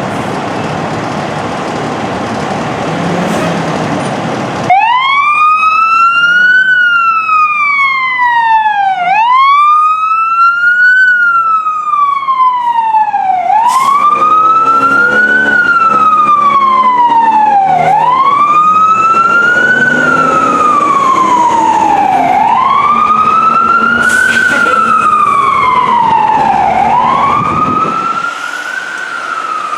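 Fire truck siren wailing, starting abruptly about five seconds in and rising and falling slowly in pitch about every four to five seconds, over traffic and engine noise.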